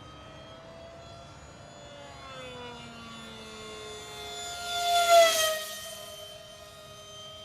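A 50mm electric ducted fan RC jet whining in flight, growing louder to a close, rushing pass about five seconds in, its pitch dropping as it goes by, then a steadier, quieter whine as it flies off.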